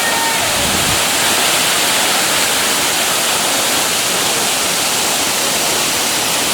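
Waterfall pouring: a loud, steady hiss of falling water.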